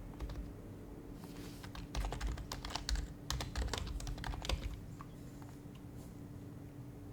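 Typing on an HHKB Professional HYBRID Type-S keyboard with its silenced Topre switches. A quick burst of keystrokes runs from about a second in to nearly five seconds, then a few scattered strokes follow.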